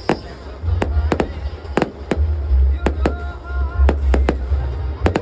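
Aerial firework shells bursting in quick, irregular succession, about a dozen sharp bangs, some close together, over a steady low rumble.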